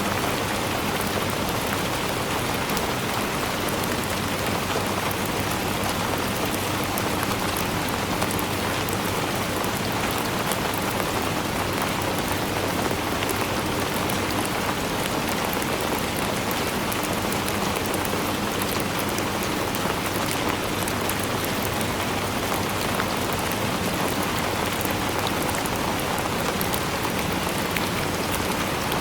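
Steady rainfall, a dense even patter of drops hitting a surface with no break or change.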